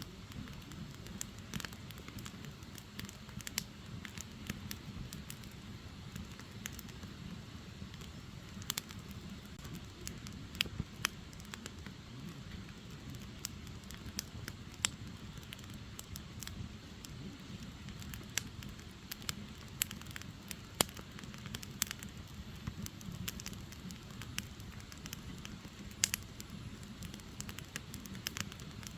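Firewood burning in an open fire: irregular sharp crackles and pops from the logs, several louder snaps among them, over a steady low rush of the flames.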